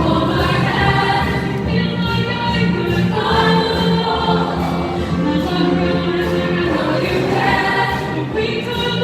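Junior high choir singing a song with accompaniment.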